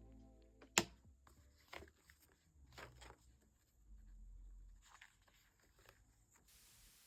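A few faint taps and clicks of things being handled on a desk, the sharpest about a second in.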